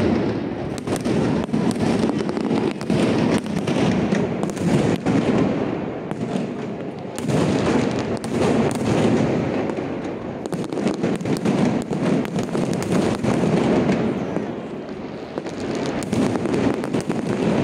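Fireworks display: a continuous barrage of aerial shells bursting, many bangs overlapping one another with no pause.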